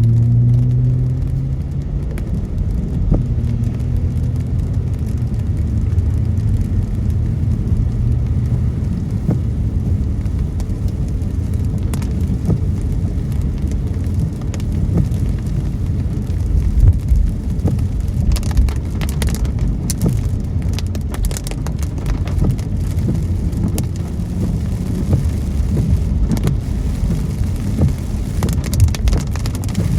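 A car driving in rain: a steady low rumble of engine and tyres on a wet road, with raindrops tapping on the car's windows as scattered ticks, more often in the second half. A low hum in the first several seconds fades out.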